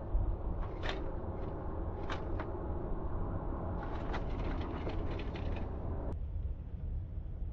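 Backyard outdoor ambience at a bird feeder: a steady low rumble with scattered short, sharp clicks. The clicks are spread through the first half and bunch together in the middle; about six seconds in, the ambience turns quieter and duller.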